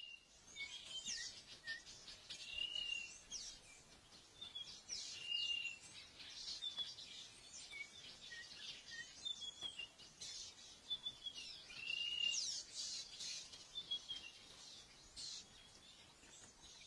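Wild birds calling: a short arched whistle repeated every few seconds among many quick, high, sweeping chirps.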